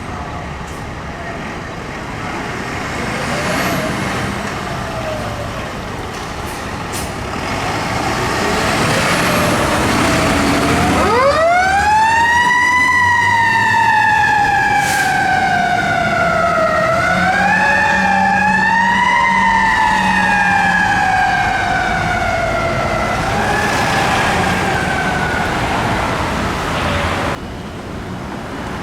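Fire apparatus responding. A diesel engine runs, and about eleven seconds in its siren winds up sharply, then sweeps slowly down and up again twice before fading near the end.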